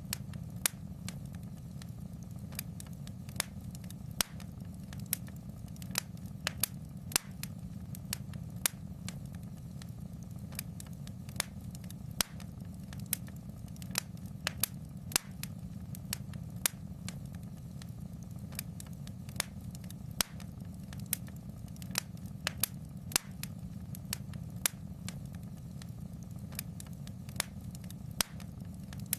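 Wood fire crackling in a fireplace: frequent sharp pops and snaps, several a second at irregular spacing, over a steady low rumble of the flames.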